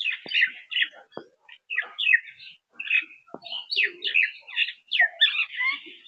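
Small birds chirping in a busy run of short, quick calls, with a few sharp clicks among them.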